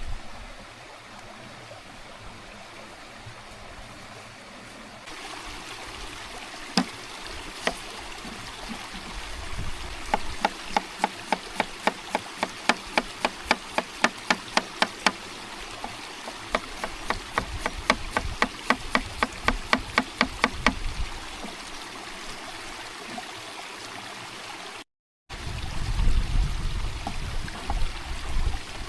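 Steady running-water noise of a stream, with a run of quick, even knocks, about three a second, for some ten seconds midway.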